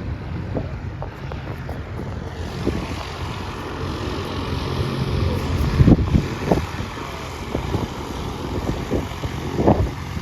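Wind buffeting the microphone over a steady low rumble, with stronger gusts about six seconds in and near the end.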